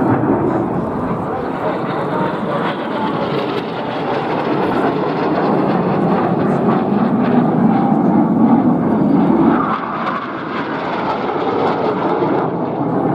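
Fixed-wing display aircraft's engine droning steadily as it flies past, swelling slightly around the middle and easing off briefly near the end.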